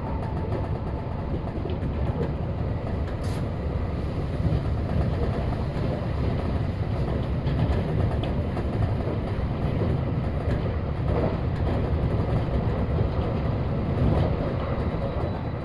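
Kintetsu electric train running with a steady rumble of wheels on rail, with a single click about three seconds in.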